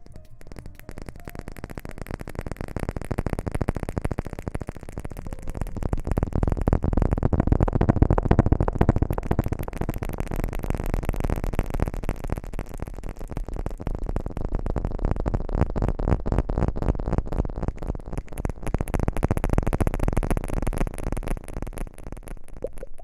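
Dense crackling rustle close against the microphone, an ASMR rustling trigger; it builds over the first few seconds and then holds steady.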